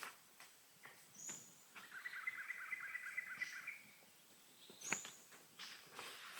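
A songbird calling: a short high whistled note, then a rapid trill lasting about two seconds, then another high note, with scattered faint clicks.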